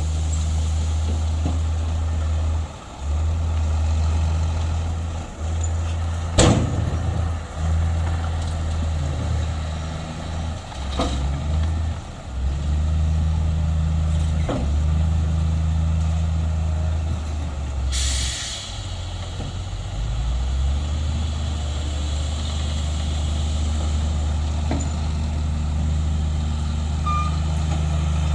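Heavy diesel earthmoving machinery running, its low engine drone rising and falling with load, with sharp metal clanks three times and a short air hiss about eighteen seconds in.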